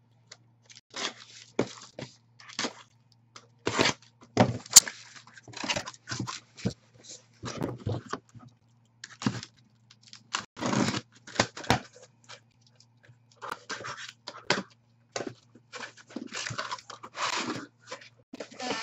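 Card-box packaging being opened and handled: irregular short tearing and crinkling noises of plastic wrap and cardboard, with a faint steady low hum underneath.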